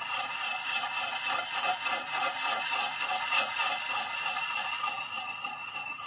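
A wet puck sharpening stone rubbed in small circles on the edge of an axe head clamped in a vise: a rhythmic rasping scrape, with steady high ringing tones over it.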